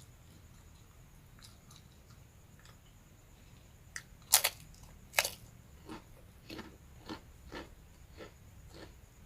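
A person biting and chewing crispy rambak (fried skin crackers) close to the microphone: faint small clicks at first, two loud crunching bites about four and five seconds in, then steady crunchy chewing about twice a second.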